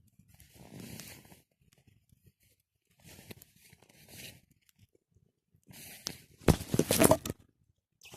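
Three bursts of rustling and crunching, the last and loudest near the end with a run of sharp cracks.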